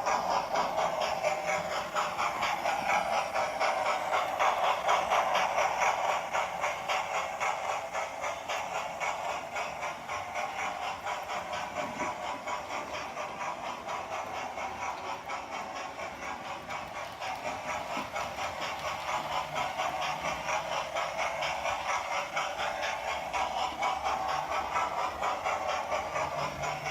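Hornby TTS sound decoder in an OO gauge model of the Duke of Gloucester steam locomotive, playing fast, even exhaust chuffs through its small speaker, mixed with the clatter of the model's wheels on the track. The level swells and dips as the train moves around the layout.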